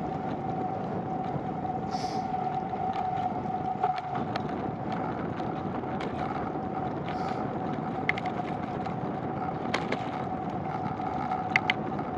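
Bicycle in motion: a steady rush of tyre and wind noise with a constant hum, broken by scattered clicks and rattles.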